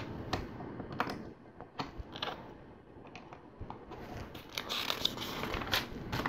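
Small plastic LEGO pieces being handled: a few scattered light clicks, with soft rustling of pieces being moved and sorted from about four seconds in.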